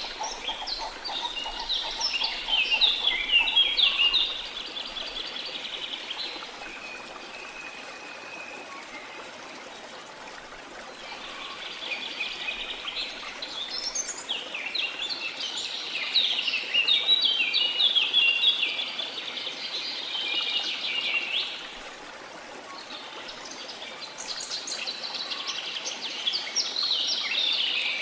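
Songbirds singing in long runs of rapid chirps over the steady rush of a waterfall. The singing stops for a few seconds about six seconds in, leaving a thin held note over the water, then starts again and carries on to the end.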